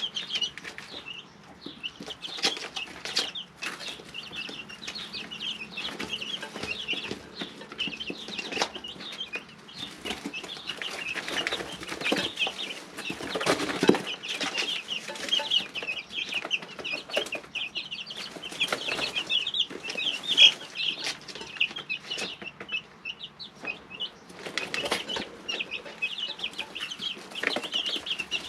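Three-week-old chicks peeping continuously in a brooder: many short, high chirps, busiest in the second half, mixed with frequent short taps and scuffles. A faint steady hum runs underneath.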